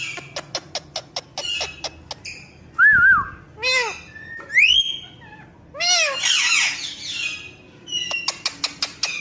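Pet parrot calling: a quick run of sharp clicks, then warbling whistles and whistled glides, a harsh squawk after the middle, and another run of clicks near the end.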